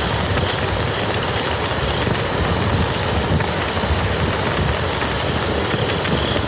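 Campfire crackling over the steady rush of a flowing river.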